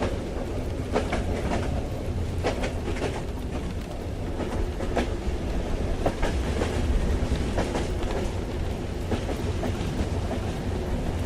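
A moving train heard from inside a carriage: a steady low rumble of the running gear with scattered, irregular clicks and knocks.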